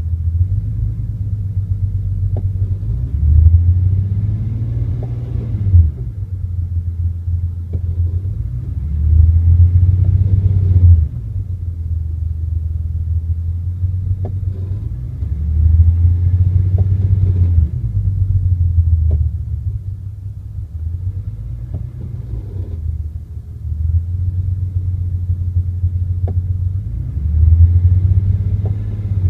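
Car engine running with a heavy low rumble and about five louder swells a few seconds long, roughly every six seconds, as if revved or put under load again and again. Faint ticks are heard here and there. The car is suspected of having transmission or engine mount problems.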